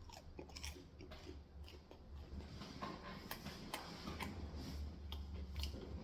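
Close-miked eating: a person biting and chewing food, with faint irregular wet mouth clicks and soft crunches that get a little louder in the second half.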